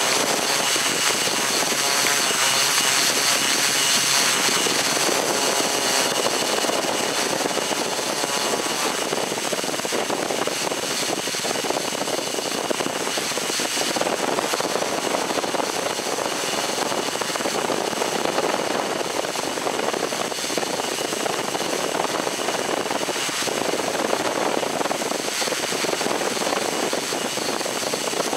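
Electric motors and propellers of a radio-controlled camera drone running steadily in flight. The sound is a dense propeller rush with a steady high motor whine, and the pitch wavers somewhat in the first few seconds.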